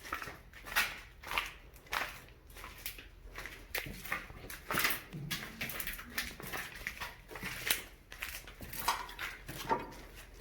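Footsteps walking steadily, about two steps a second.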